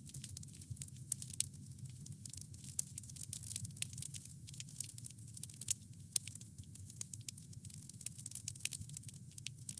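Wood fire burning with dense, irregular crackling and occasional sharper pops over a steady low rumble of the flames.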